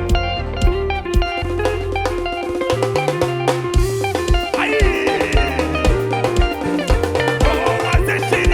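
Live praise band playing an upbeat instrumental passage on drum kit and guitars, with a steady beat and a moving bass line.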